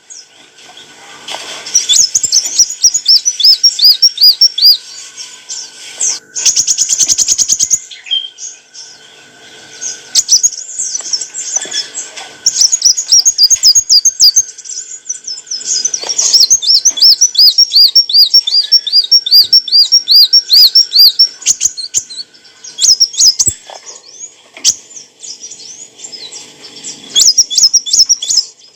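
A sunbird, the kolibri wulung of Indonesian bird keepers, singing loudly. Its song is a fast series of high, looping chirps, several a second, in bursts with short pauses between them. There is a dense buzzy trill about a quarter of the way in.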